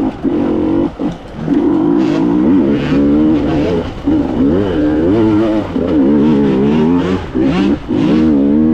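Two-stroke enduro motorcycle engine revving up and down again and again, with short throttle-offs about a second in and near the end. The rear wheel is struggling for grip on wet, slippery mud.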